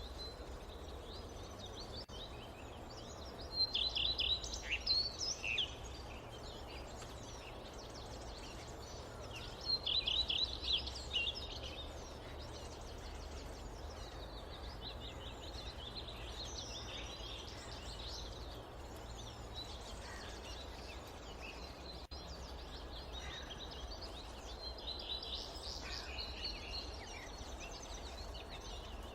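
Forest ambience: songbirds chirping and calling, with two louder bursts of rapid chirps about four and ten seconds in and scattered calls after, over a steady low rumble.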